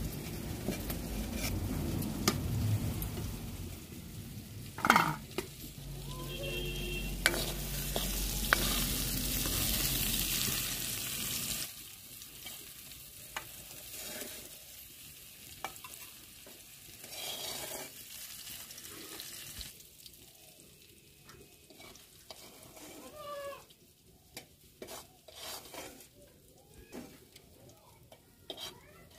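Small snails frying in hot oil in a steel karahi, sizzling, while a metal ladle stirs and clinks against the pan. The sizzle is loudest for the first dozen seconds, then drops away suddenly, leaving only quieter ladle clinks.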